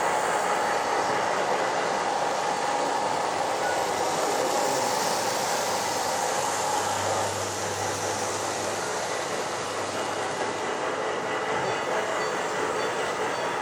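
H0-scale model train running on a layout's track: a steady rolling rattle of small wheels on rail, with a faint low motor hum for a few seconds around the middle.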